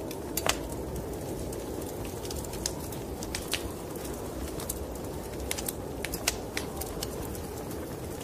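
Wood fire crackling in a fireplace, with irregular sharp pops and snaps, over a steady low rushing noise.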